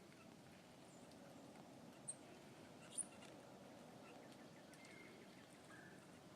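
Quiet outdoor ambience with two short, very high chirps about a second apart, the calls of a small bird.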